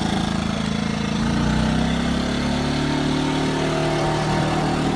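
WEN 2000-watt inverter generator running steadily just after being pull-started, its engine pitch rising slightly about a second in and then holding.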